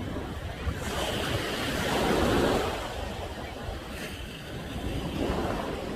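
Ocean surf at high tide washing against the shore, a wave building to its loudest about two seconds in and then easing back.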